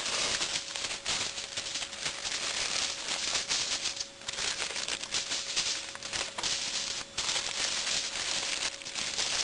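Aluminium foil crinkling and rustling in irregular crackles as a foil meal packet of ground beef and vegetables is folded and wrapped by hand.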